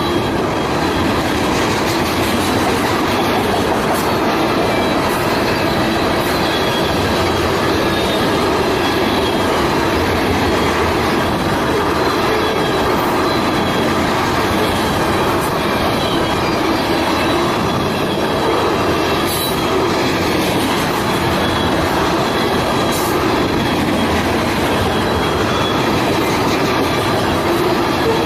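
A train's railcars rolling steadily past close by, with a faint high squeal of wheels on rail running through the noise.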